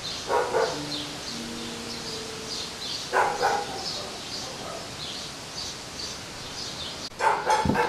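A small bird chirping over and over outdoors, a short high note about twice a second, with brief voice-like sounds about half a second in, about three seconds in and near the end.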